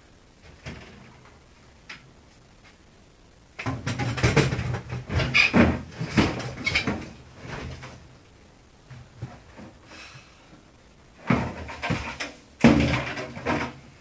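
Irregular clattering and knocking of refrigerator parts being worked on by hand, in two bursts: one about four seconds in that lasts several seconds, and another shorter one near the end.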